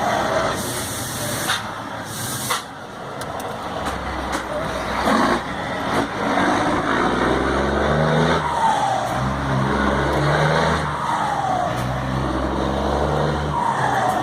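Scania P94 diesel truck engine revved in repeated blips, its turbocharger fitted with a whistle comb ('pente') so that it sings. A whistle falls in pitch as each rev drops away. Near the start there are two short hisses of released air.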